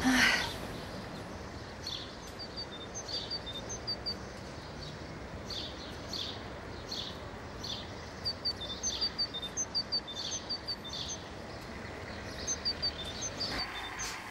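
Small birds chirping in short, repeated high calls over a steady outdoor background hiss. A brief louder noise comes at the very start.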